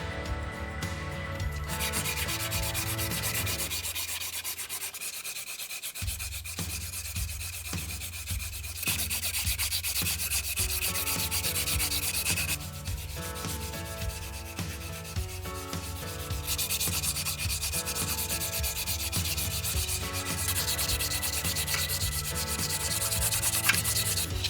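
Abrasive rubbing on the leaf-spring steel knife by hand, a hissing scrape in stretches of a few seconds with short pauses between them.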